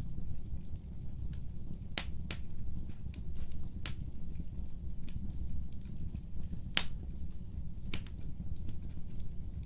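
Fire burning in a fireplace: a steady low rumble of flame with scattered sharp crackles and pops, the loudest about two seconds in and again near seven seconds in.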